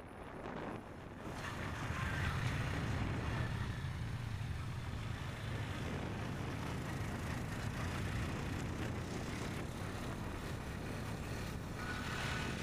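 Motorbike engine running steadily on the move, with road and air noise. It grows louder about a second and a half in, then holds steady.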